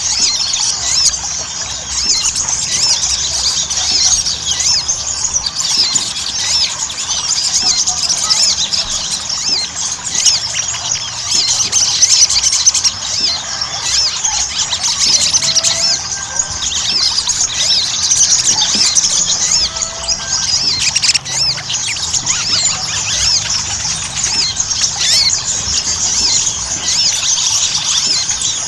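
Sogon (sogok ontong) sunbirds singing in full song: a dense, unbroken twittering of many quick, high chirps overlapping, with now and then a lower whistled note. It is a lure recording of birds in full song, played so that caged sogon will start singing.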